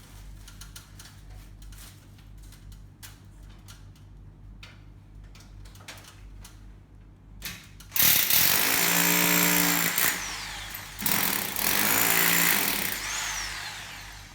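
A power drill run in two bursts of about two seconds each, starting about eight and eleven seconds in, after a stretch of low steady hum with faint clicks.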